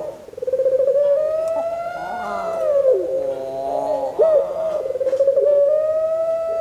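A puter pelung, the long-cooing variety of domestic Barbary dove, cooing in long, drawn-out notes. Each note is held at one pitch and dips at its end, with only short breaks between them.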